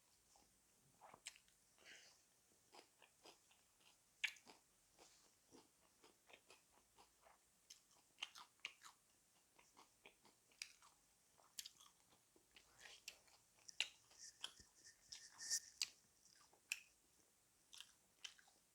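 A person chewing and biting fried chicken: faint, irregular crunches and wet mouth clicks, several a second.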